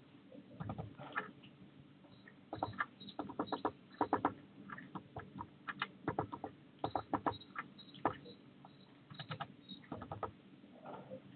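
Irregular clicking, tapping and scrabbling of a small bird moving about on the feeder wire close to the microphone, the taps coming in quick clusters.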